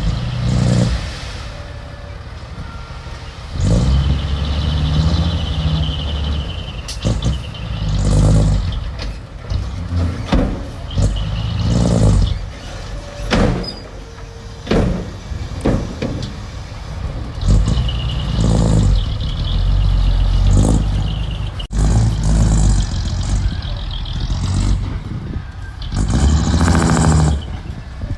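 Diesel engines of heavy earthmoving machines revving in repeated surges, each lasting a second or two, between lower running. Some surges carry a hiss.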